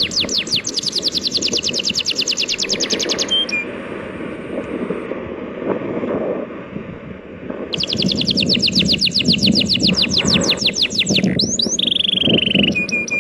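A songbird singing long, fast trills of rapidly repeated down-slurred notes, two trills with a pause between and a short falling whistle near the end, over a steady wash of sea waves.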